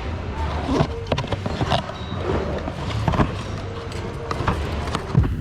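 Store bustle: scattered clicks and knocks of objects being handled, over a low steady hum with faint voices in the background.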